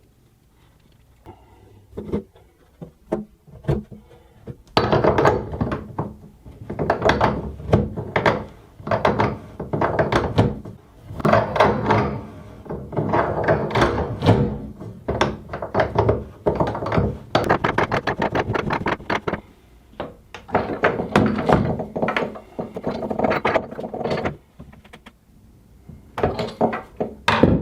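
Rapid, irregular runs of sharp clicks and knocks in bursts, from hand tools working the new bathtub drain into place, with a short pause near the end.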